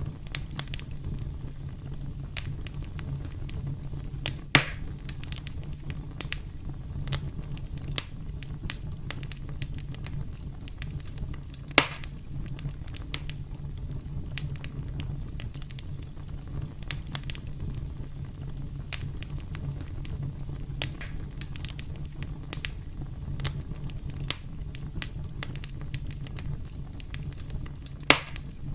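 Campfire crackling: a steady low rumble of flames under a dense scatter of small clicks, with three sharper, louder pops spread through, about 4, 12 and 28 seconds in.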